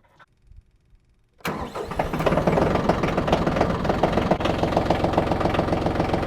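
Bad Boy 4025H compact tractor's diesel engine starting about a second and a half in: it catches at once and settles into a steady idle with an even, rapid clatter.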